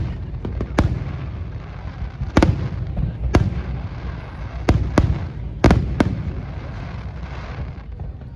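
Aerial fireworks shells bursting: about seven sharp bangs at irregular intervals, a couple in quick pairs, over a continuous low rumble.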